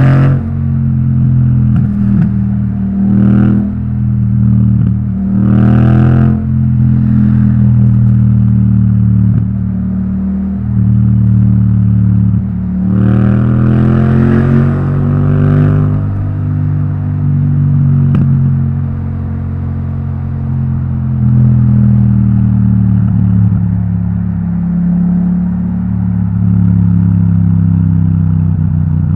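Yamaha MT-07's parallel-twin engine through an Akrapovic titanium exhaust, ridden in traffic. The engine note rises sharply as it accelerates right at the start, again about six seconds in, and in a longer pull from about thirteen to sixteen seconds. In between, the engine holds a steady lower note.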